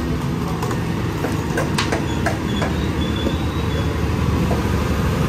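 An elevated light-rail train passing, a loud steady low rumble with scattered clicks.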